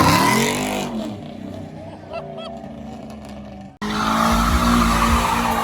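A car or truck doing a burnout: engine revving up with tires spinning and squealing, dying down within the first second. After an abrupt cut nearly four seconds in, another loud stretch of engine held at high revs with tire squeal.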